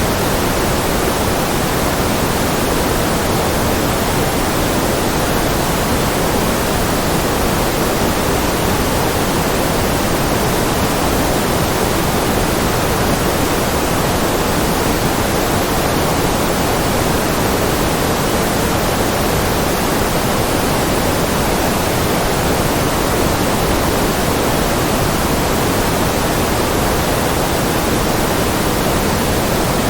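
Steady synthetic noise of a 'white noise' relaxation track, completely even and unchanging, with more weight in the low and middle range than in the highs.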